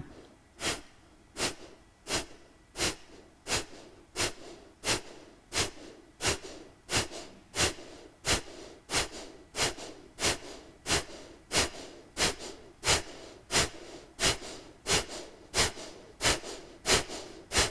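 Kapalbhati (breath of fire) breathing: a steady run of short, sharp, forceful exhalations through the nose, about one every 0.7 seconds, each followed by a quiet passive inhale.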